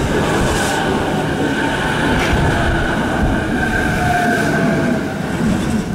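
JR Yokohama Line electric train running loudly past the platform: dense wheel and rail rumble with a steady high whine. The whine dips slightly in pitch, and the sound eases off near the end.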